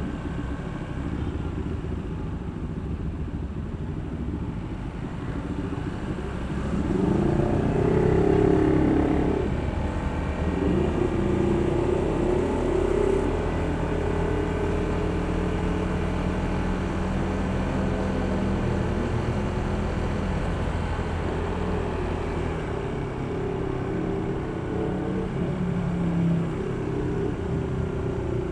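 Honda ADV160 scooter's single-cylinder engine running under way, heard from the rider's seat. About seven seconds in it speeds up and gets louder, then holds a steadier cruise.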